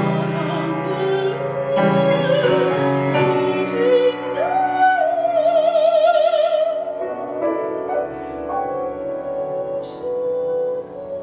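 Soprano singing a classical art song with piano accompaniment; about halfway through she holds a long note with wide vibrato.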